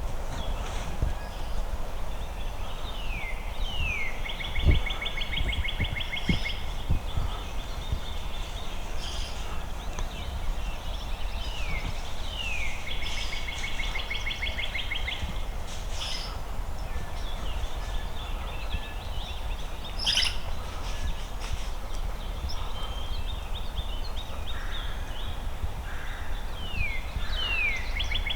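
A songbird singing three times, each song two quick down-slurred whistles followed by a fast, buzzy trill about two seconds long. Low wind rumble underneath, and a single knock about five seconds in.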